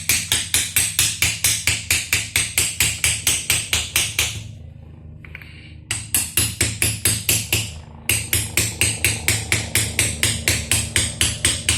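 Hammer striking metal in quick, even blows, about four a second, in three runs broken by short pauses about four and eight seconds in.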